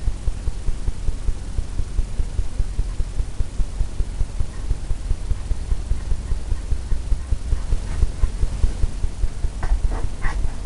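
Oil-paint brush working against a pre-stretched canvas, a fast, steady run of low thumps a few times a second over a low hum.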